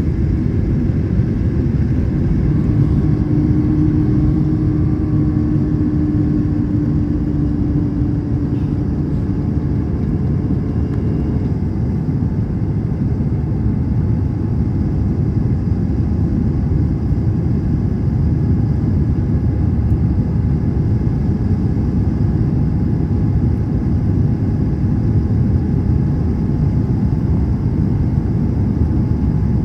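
Steady low rumble of cabin noise inside an Airbus A321 airliner: engine and airflow noise heard from a passenger seat. A faint steady hum sits over it for several seconds in the first third.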